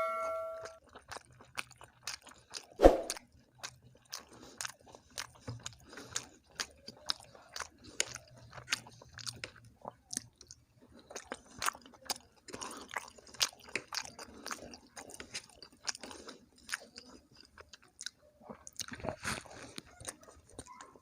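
Close-miked chewing, many short wet clicks and smacks of a mouth eating, with one loud knock about three seconds in.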